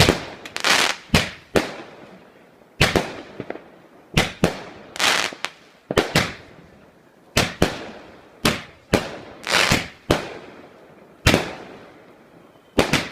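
Multi-shot firework cake going off in a steady volley of loud bangs, about one a second, several of them trailed by a short high fizz.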